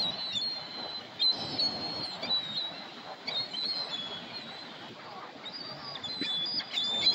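Birds calling: short, high-pitched calls and chirps repeated in clusters, busiest about a second in and again near the end, over low background noise.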